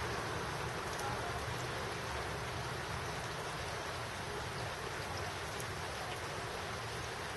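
Steady rain falling, a constant hiss with a few faint, scattered drop ticks.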